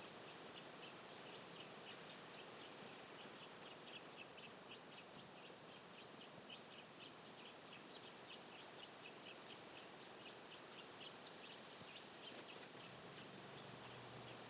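Faint outdoor quiet with small birds chirping: a quick run of short, high chirps, several a second, that keeps going throughout.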